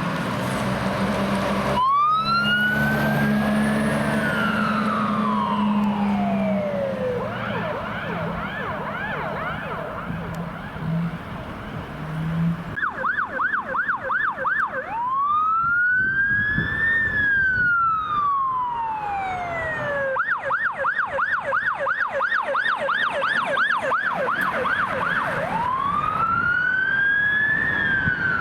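Fire engine siren sounding one long rising-then-falling wail followed by a fast yelp, over the truck's low engine hum. From about halfway, a second emergency vehicle's siren, the medical field supervisor's response car, alternates between a fast yelp and long rising-and-falling wails.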